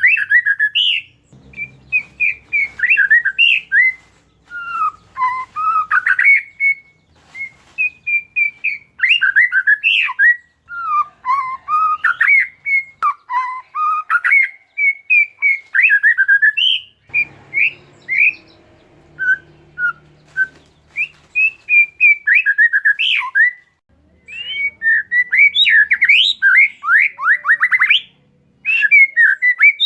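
Oriental magpie-robin (kacer) singing a long, unbroken run of rapid, varied whistles and chirps, with a burst of fast sweeping notes near the end.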